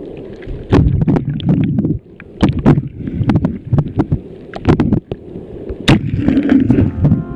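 Waves and water sloshing and splashing around a camera in rough surf, in irregular surges with sharp knocks and clicks against the housing.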